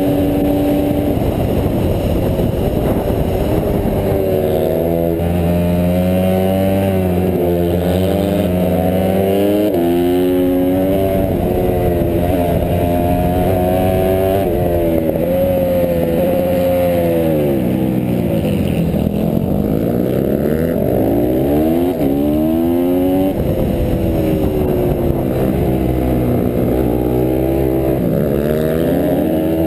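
A Honda CRF150R pitbike's single-cylinder four-stroke engine racing at full throttle. It revs up and drops in pitch again and again as the rider shifts gears and brakes for corners. About two-thirds of the way through, a second engine at a different pitch can be heard alongside it.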